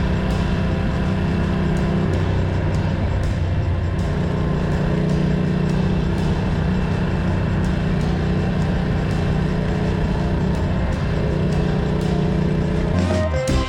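Ducati Monster 620's air-cooled L-twin engine running steadily under way, its note dropping about two seconds in and climbing back about four seconds in, then holding. Music comes in near the end.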